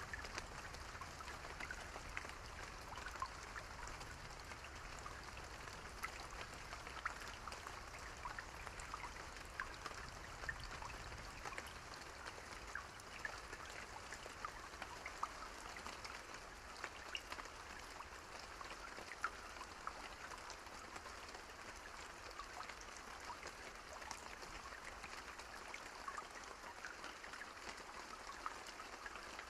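Steady rain falling, a soft even hiss with many individual drops ticking on a surface.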